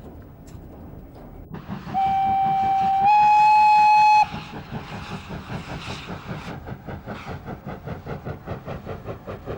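Steam locomotive whistle blowing one loud blast of about two seconds that steps up slightly in pitch halfway and cuts off sharply, followed by the locomotive working its train with a steady exhaust beat of about three to four chuffs a second.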